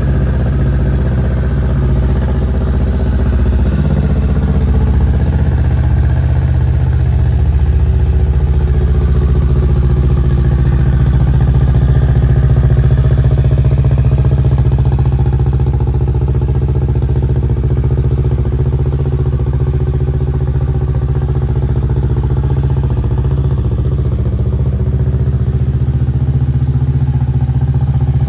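Kawasaki Ninja 650's parallel-twin engine idling steadily, with no revs.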